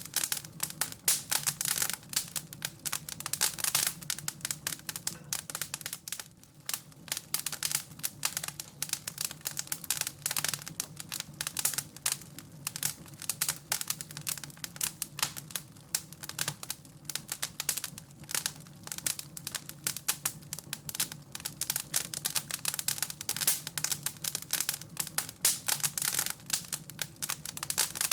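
Wood fire crackling in a fireplace: dense, irregular pops and snaps over a low steady hum.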